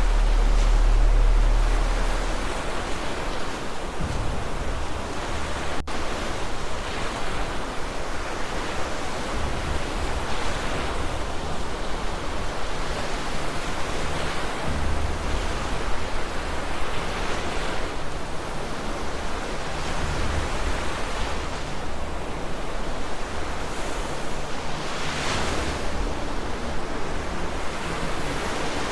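Rushing flood water and crashing surf: a dense, steady wash of water noise, with a heavy low rumble in the first two seconds or so.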